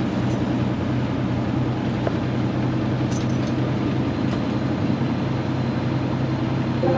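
Semi truck's diesel engine running steadily under road noise while driving, a continuous low drone.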